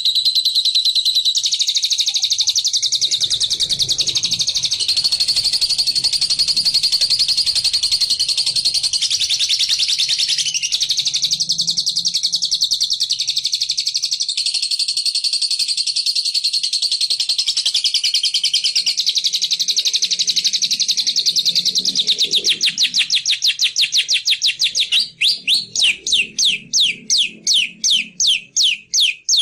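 Birdsong lure recording: a loud, high, rapid continuous trill, which breaks near the end into separate sharp chirps repeated about three times a second.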